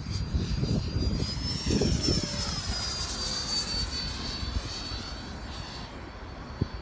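A 90mm electric ducted fan RC F-4 Phantom jet making a low pass: its high fan whine rises in pitch as it approaches about two seconds in, then falls away as it passes and recedes. Strong wind rumbles on the microphone throughout.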